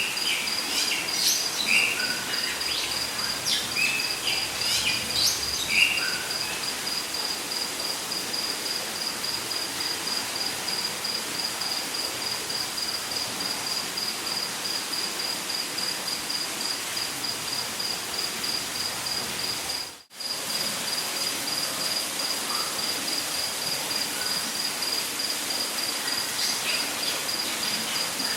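Rainforest ambience: an insect trills steadily on one high pitch in rapid pulses over a steady background hiss. Birds call in the first few seconds and again near the end. The sound drops out for an instant about two-thirds of the way through.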